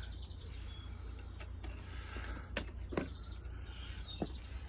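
Small birds chirping repeatedly in short falling calls over a steady low rumble, with a few sharp clicks or knocks about halfway through and near the end.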